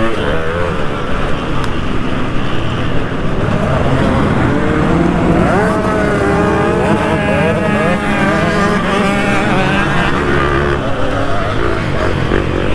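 Two-stroke motocross engine of a 2003 KTM 200 SX being revved hard and eased off through the gears, its pitch climbing and dropping again and again. Other dirt bikes' engines overlap with it in the middle of the stretch.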